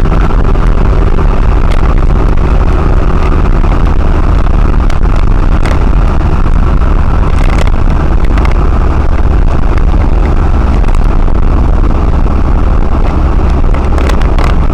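Rental lorry driving on a wet road in the rain: a loud, steady low engine and road rumble with tyre hiss, and a few faint clicks scattered through.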